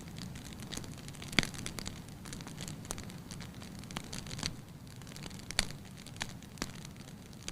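Wood fire crackling in a fireplace: irregular sharp pops, the loudest about one and a half seconds in, over a steady low background of the burning fire.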